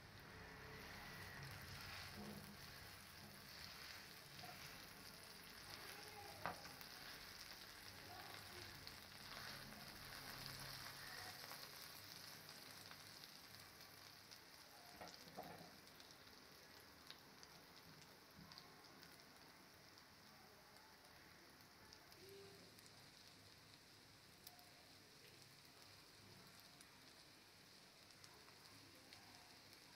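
Mutton chapli kababs sizzling faintly as they shallow-fry in oil in a pan, with a few light clicks; the sizzle grows quieter over the second half.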